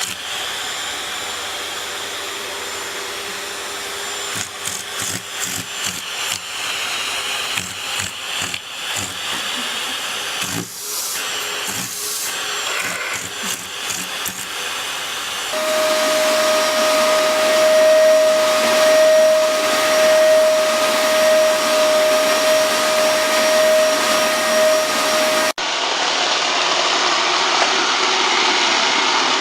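Household vacuum cleaner running, through several cut-together clips. The first clip has knocks and clicks over it. The middle clip carries a steady high motor whine, and the last is a duller rushing noise.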